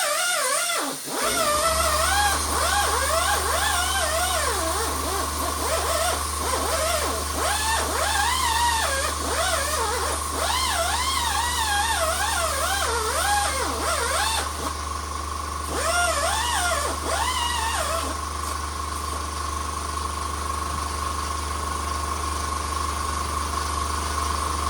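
An electric tool spinning a wire wheel starts about a second in and runs steadily with a constant hum and whine. A high, wavering squeal rises and falls over it until about 18 seconds in, then only the steady motor sound remains.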